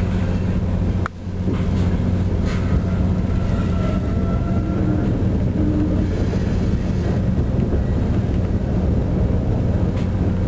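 Passenger train car rolling along, heard from inside the coach: a steady low hum over an even rumble. The sound cuts out for a moment about a second in.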